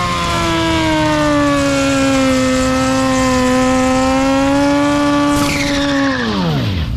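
Sportbike engine held at high revs in a burnout, its pitch steady and sagging a little. Near the end the revs drop away sharply.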